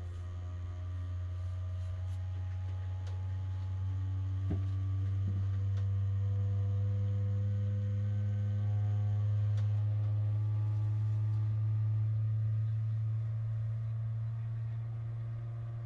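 A steady low machine hum with several held tones above it that shift slightly in pitch, growing a little louder through the middle, with a couple of faint clicks about four and a half seconds in.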